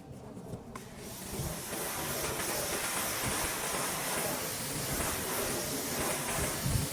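Pressure washer spraying a jet of water, a steady loud hiss that starts about a second in.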